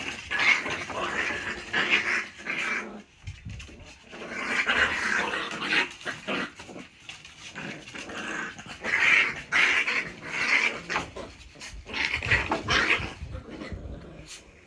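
Chihuahuas growling in repeated rough bursts of about a second each, coming in four bouts; noisy play-growling that is not as aggressive as it sounds.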